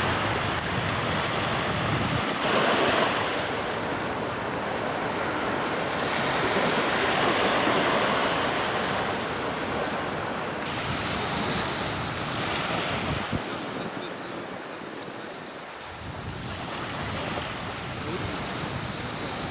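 Sea waves washing and surging, swelling and easing over several seconds, with wind buffeting the microphone; the wind rumble lets up briefly near the end.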